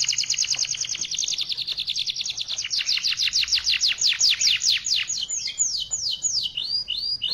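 Canary singing close by: a fast rolling trill of rapidly repeated high whistled notes that slows about five seconds in into a few longer down-slurred whistles, then short looping notes near the end.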